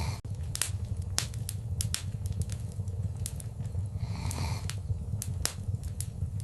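Wood fire crackling in a fireplace: frequent sharp pops and snaps of burning wood over a steady low rumble of the flames, with a brief soft hiss about four seconds in.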